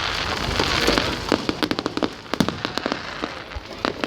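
Fireworks going off: a dense fizzing crackle for about the first second, then a rapid, irregular string of sharp pops and bangs.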